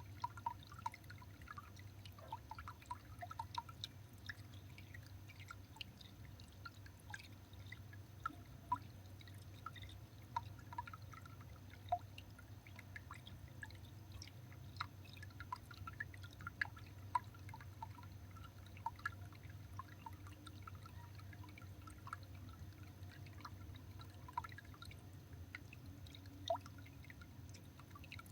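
Irregular light ticks and taps, several a second, over a steady low hum.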